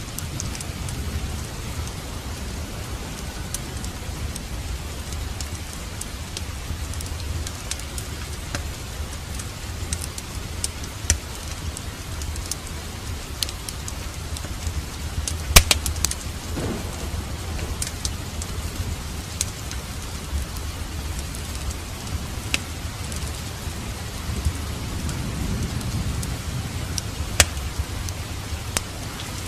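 Steady rain over a low rumble of distant thunder, with scattered sharp pops and crackles from a fireplace, the loudest a little past halfway.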